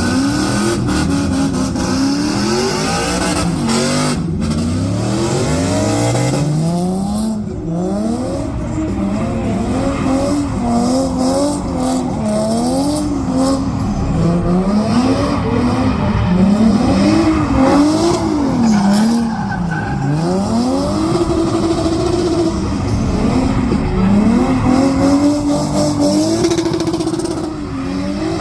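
Car engine revved hard again and again, its pitch climbing and dropping every second or two, over the hiss and squeal of spinning tyres in a burnout.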